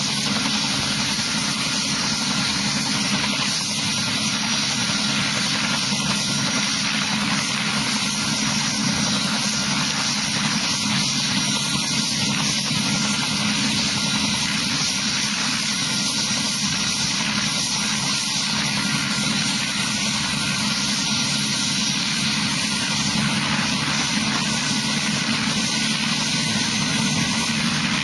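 Helicopter's engine and rotor running steadily, with no rise or fall in level.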